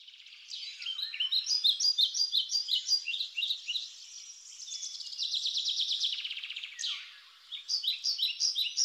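Songbirds singing: runs of quick, repeated high chirps, with a rapid trill in the middle and another run of chirps near the end.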